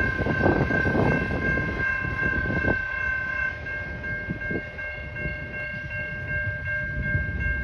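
Norfolk Southern freight train running past the grade crossing: a low rolling rumble that eases off slightly partway through, with steady high-pitched tones held over it.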